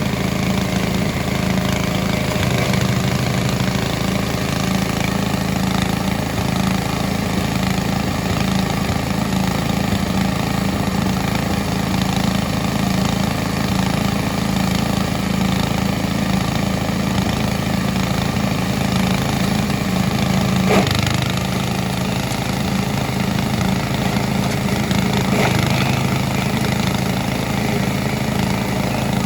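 Engine of a grass chopper machine running steadily, with one brief sharp knock about two-thirds of the way through.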